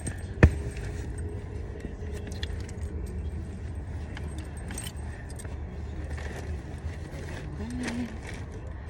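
Small objects being handled, clinking and rattling, with one sharp knock about half a second in, over a low steady rumble.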